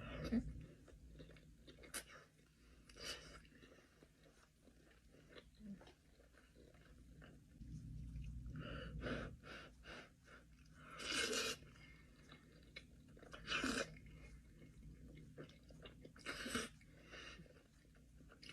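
A person chewing food close to the microphone, with several loud crunchy bites spaced a few seconds apart between quieter wet chewing.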